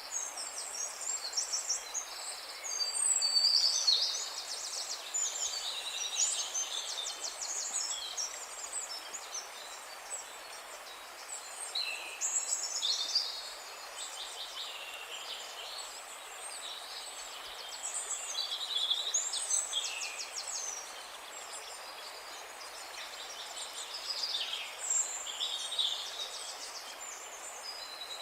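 A chorus of several songbirds singing at once: overlapping high, fast trills and chirps, one after another with hardly a break, over a faint steady background hiss.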